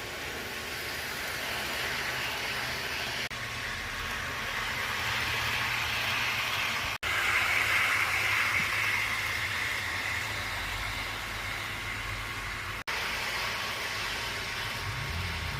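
Piko H0-scale model passenger train running along its track: the small electric motor whirrs and the wheels rattle over the rails. It grows louder as it comes closest, about halfway through, then eases off.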